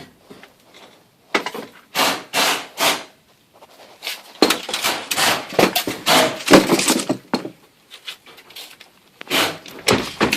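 Irregular groups of knocking, clattering and scraping from hands-on work on garage door parts, with short quiet pauses between the groups.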